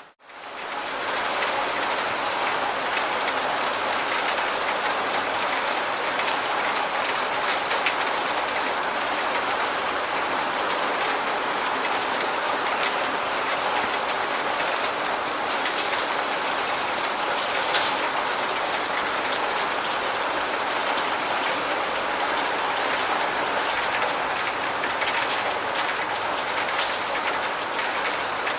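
Steady rain falling: an even hiss with scattered individual drops ticking, rising back in from a brief dropout at the start.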